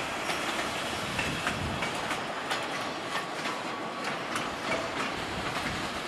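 Freight train cars rolling past, their wheels clicking irregularly over rail joints, with a faint thin squeal about a second in.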